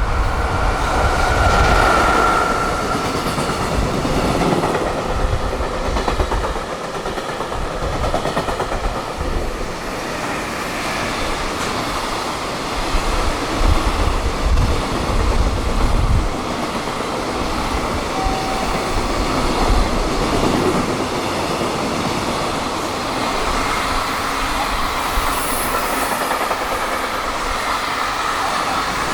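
A high-speed freight train running past close by, its wagons clattering over the rail joints in a continuous rush of wheel and rail noise. Wind buffets the microphone with uneven low rumbles.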